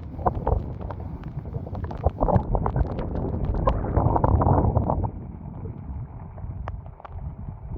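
Storm-force wind gusting and buffeting the microphone, with irregular sharp taps and flaps over it. The gust builds from about two seconds in, is strongest around four to five seconds, and eases after that.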